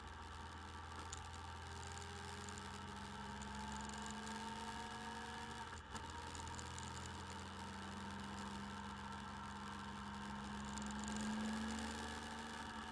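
Motorcycle engine running at a steady pace while riding, heard through the bike camera's microphone. The engine note drifts slightly in pitch and gets louder near the end, and there is a brief click about six seconds in.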